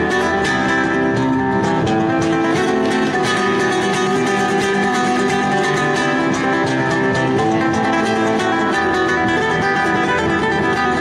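Guitar music played fast, a dense run of quickly picked notes and chords at a steady loud level.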